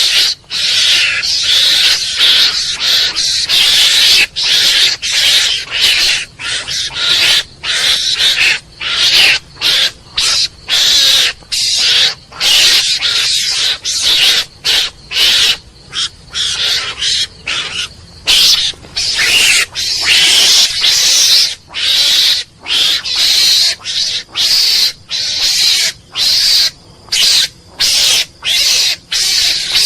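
Mongoose calling: a long run of high-pitched, hissy calls, one after another at about one to two a second, with short breaks between them.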